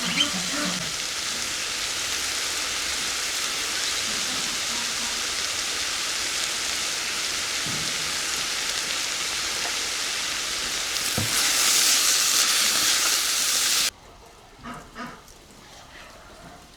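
Food sizzling as it fries in a pan over an open fire, a steady hiss that grows louder for a few seconds. It cuts off suddenly about three-quarters of the way through, leaving quieter background with a few soft knocks.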